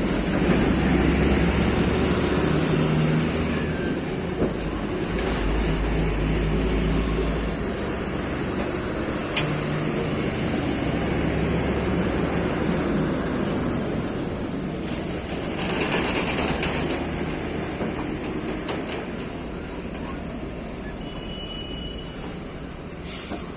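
Heavy diesel lorry engine running under load with a deep, steady rumble, easing off gradually over the last several seconds.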